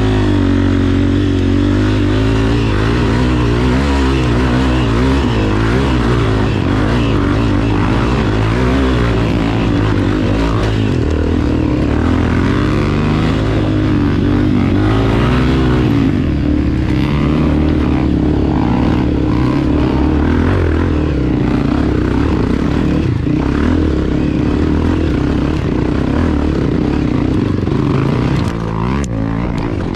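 Enduro motorcycle engine revving hard up a steep dirt hill climb from a launch, its pitch rising and falling continuously as the rider works the throttle and gears.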